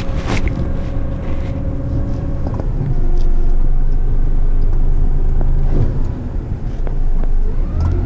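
Engine of an 8-wheeler twin-steer heavy rigid truck running as it drives, a steady low rumble that gets louder about three seconds in.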